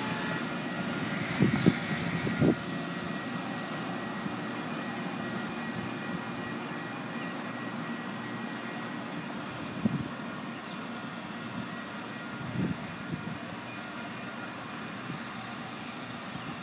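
Steady drone of an Amtrak train, hauled by a Siemens SC-44 Charger diesel locomotive, with a few short, dull thumps.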